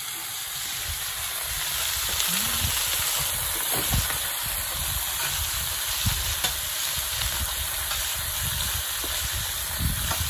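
Pork belly sizzling on an iron griddle plate over a wood fire: a steady, spitting hiss that grows louder over the first couple of seconds, with a few short low knocks.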